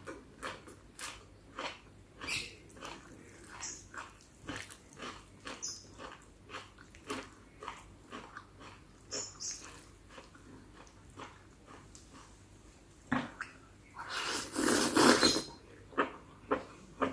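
Close-up chewing of spicy chicken-feet salad: steady crunching and wet mouth clicks, about two or three a second. A louder rush of noise lasts a second or so near the end.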